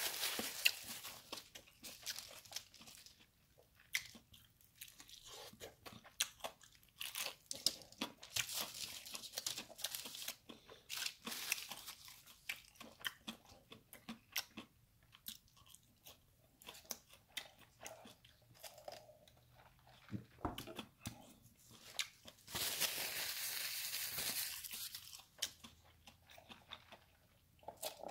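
Close-up eating sounds: fried chicken and crinkle fries being bitten and chewed, with repeated sharp crunches and crackles of crispy fried batter. About three-quarters of the way through, a steadier noise lasts for about three seconds.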